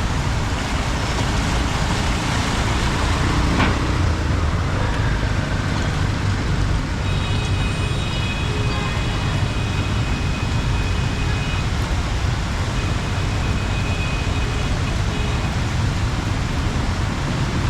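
Heavy rain falling as a steady hiss, over the low rumble of motor traffic on a flooded street. There is a single knock about three and a half seconds in.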